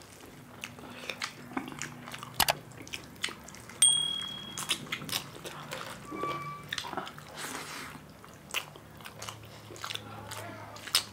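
Close-up eating sounds of rice, rajma curry and chicken wings eaten by hand: chewing and wet mouth smacks with many scattered clicks. A short high tone sounds about four seconds in.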